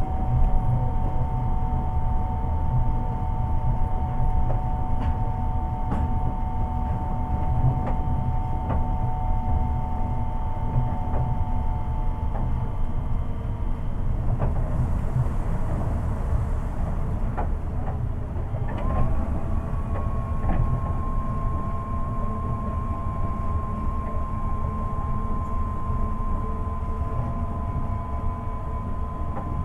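Interior running sound of a Seibu 8500 series rubber-tyred train with Hitachi IGBT-VVVF control, a steady low rumble throughout. A whine of two steady tones from the inverter and traction motors drops away about 12 seconds in. About 19 seconds in, a new whine rises quickly and then holds at a slightly higher pitch.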